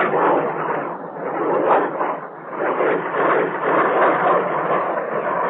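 Jet noise of an A-4D Skyhawk in low-level flight: a steady rushing sound on an old, muffled film soundtrack that swells and eases, dipping briefly about two seconds in.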